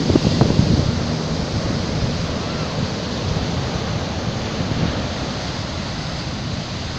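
Stormy sea surf rushing and breaking on the shore, a steady wash of noise, with wind buffeting the microphone in gusts during the first second.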